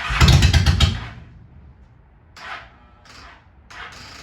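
2001 Honda Shadow 750 ACE's V-twin being cranked cold on the starter, firing in a quick string of pops for about a second and then dying without catching: a failed cold start. A few short, softer rushes of noise follow.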